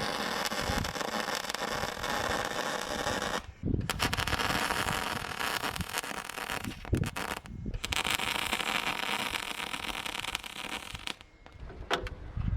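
Electric arc welding: the arc crackles steadily in three runs of a few seconds each, with brief pauses between them, and one last click near the end.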